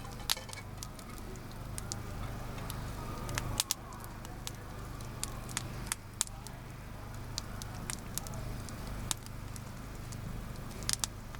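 Campfire crackling, with irregular sharp pops and snaps over a low steady background.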